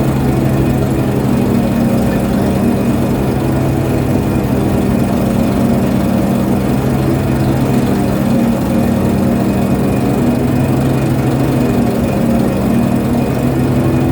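A ship's diesel engine running at a steady speed: a constant, deep hum that does not rise or fall.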